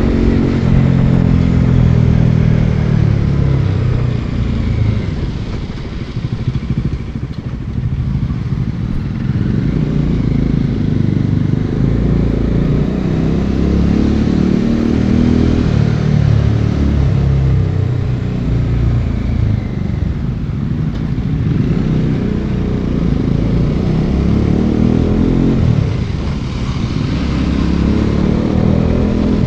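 Bajaj Dominar 400's single-cylinder engine and exhaust under way, its pitch falling and rising several times as the bike slows and accelerates.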